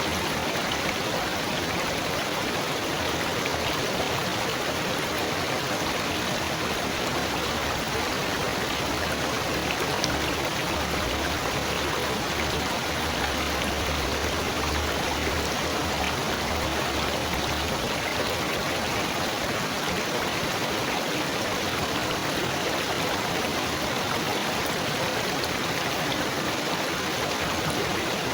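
Steady trickling, babbling running water with an even, continuous splashing hiss.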